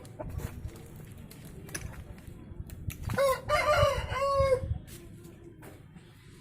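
Aseel rooster crowing once, a single crow of about a second and a half starting about three seconds in.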